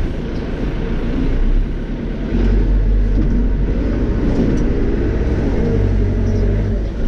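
Caterpillar 430E backhoe loader's diesel engine running, heard from inside the cab, a steady low rumble. About two seconds in the engine gets louder and heavier and holds there.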